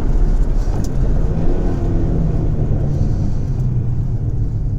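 2011 Ford Mustang's 3.7-litre V6 engine running with road noise just after a full-throttle quarter-mile run, the level easing off gradually.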